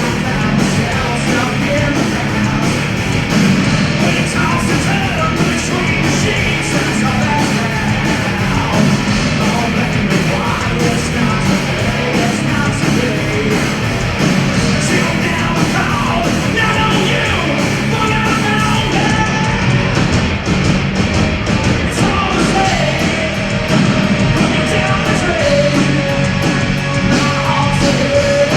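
Loud live rock band playing heavy, punk-style rock: distorted guitars, bass and pounding drums with sung and shouted vocals, continuous without a break.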